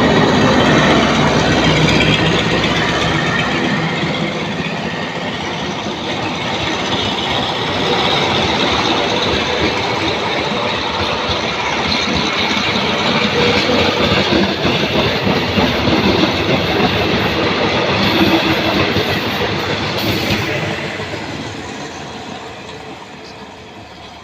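Diesel-hauled passenger train passing at speed: the locomotive's engine at first, then the carriages clattering over the rail joints, fading away over the last few seconds.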